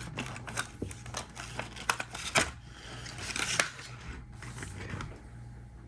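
Plastic and cardboard packaging of a diecast model car being handled and opened: crinkling with scattered sharp clicks and snaps, the loudest about two and a half and three and a half seconds in.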